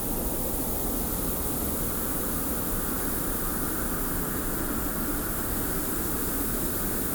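Steady desert wind with blowing sand: an even, unbroken rushing hiss with no gusts or breaks.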